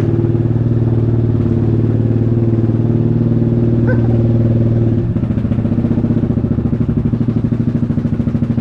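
Yamaha Grizzly 700 ATV's single-cylinder engine running steadily. About five seconds in, the engine note drops and settles into an even pulsing, as when the throttle is let off.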